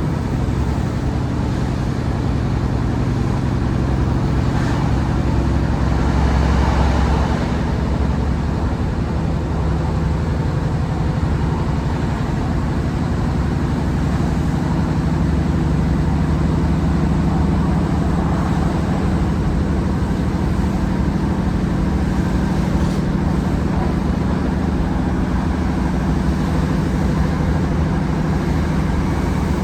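Class 150 Sprinter's underfloor Cummins diesel engine running hard under power, a steady, loud drone with a deep tone that swells slightly about six seconds in.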